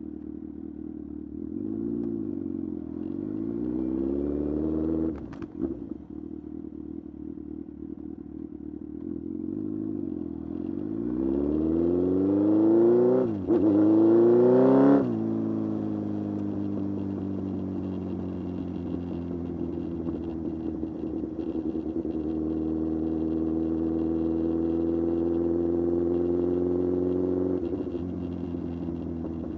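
Kawasaki Z1000 inline-four motorcycle engine under way, pulling up through the revs twice, each time with a sudden drop as the throttle is closed, the second pull the loudest, then running steadily with the revs creeping up slowly.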